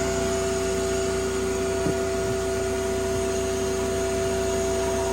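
A motor running steadily: an even mechanical hum with two constant tones, with no change in speed.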